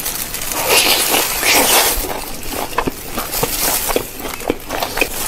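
Close-miked biting and chewing of crispy sauce-coated fried chicken: dense crunching for about the first two seconds, then scattered sharp crackles as it is chewed.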